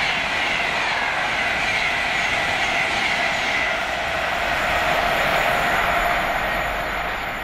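A train running past on the track: a loud steady rush of wheel and rail noise, with high whining tones that slowly fall in pitch as it goes by.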